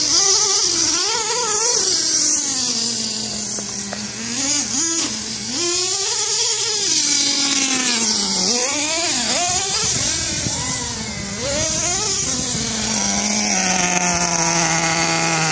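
Nitro RC truck's Vertex .25 two-stroke glow engine running, its pitch rising and falling again and again as it revs, then holding a steadier, lower note for the last few seconds.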